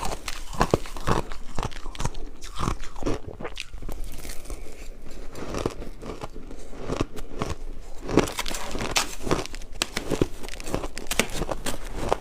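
Ice being bitten and chewed: a run of sharp, irregular crunches and crackles.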